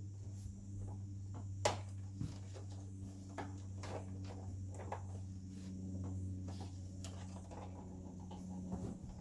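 Scattered light clicks and knocks of a projector's plastic and metal parts being handled and pried during disassembly, the sharpest click about a second and a half in, over a steady low electrical hum.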